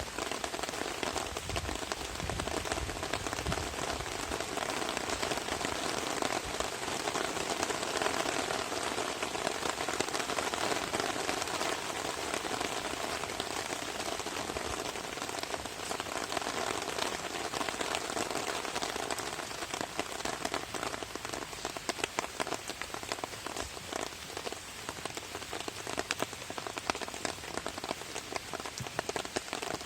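Rain drumming on a camping tarp overhead: a dense, steady patter of drops. In the second half, more single heavy drops stand out sharply.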